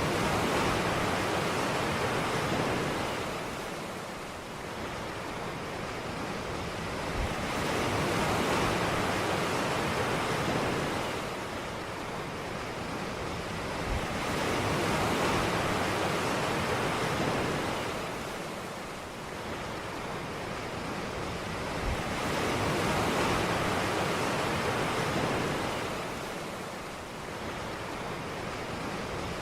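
Ocean surf breaking and washing up a beach. The rushing noise swells and fades in a slow rhythm, one wave about every seven seconds.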